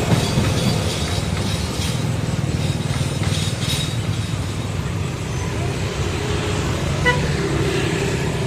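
Diesel locomotive engine rumbling steadily, with one short, high horn toot about seven seconds in.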